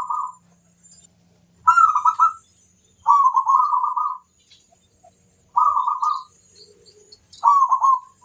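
Zebra dove (perkutut) cooing: five short, trilling coo phrases, one every second or two.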